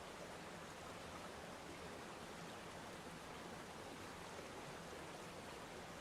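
Waterfall: falling water making a steady, even noise with no breaks or changes.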